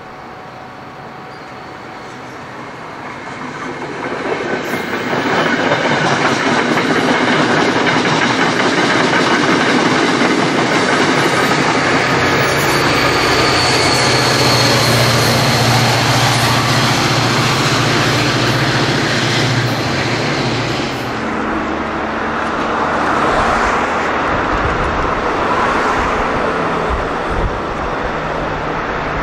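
A train passing close by. It grows louder over the first five seconds and stays loud, with a steady low hum from about twelve to twenty-one seconds, then eases off a little.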